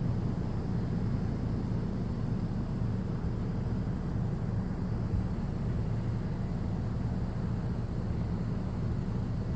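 Steady low mechanical rumble, like vehicle noise, with no distinct events.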